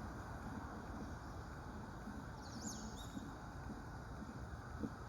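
Common kingfisher giving a sharp, high whistled call that falls in pitch, once about two and a half seconds in, over a steady low background noise.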